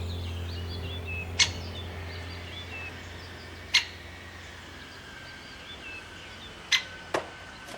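Small birds chirping faintly in the background, cut through by four sharp single clicks a few seconds apart. Soft background music fades out over the first two seconds.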